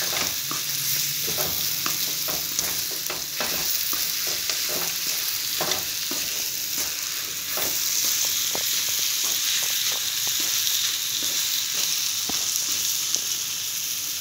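Chicken pieces sizzling in hot oil and masala in a kadai, with a wooden spatula scraping and tapping irregularly against the pan as the chicken is stirred and sautéed.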